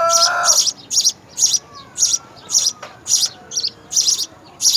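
Small bird chirping over and over in an even rhythm, about two short, high chirps a second, with a lower, pitched call at the very start.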